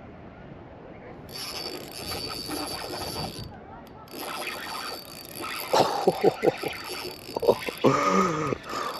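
Fishing reel being cranked, a ratcheting mechanical whir, followed by a run of sharp clicks and knocks from fishing gear. A short pitched sound comes just before the end.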